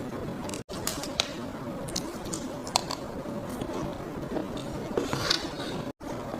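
Close-miked eating of a soft, creamy chocolate and vanilla lava cake: squishy mouth sounds with scattered sharp clicks over a steady hiss, cut by two brief gaps of silence.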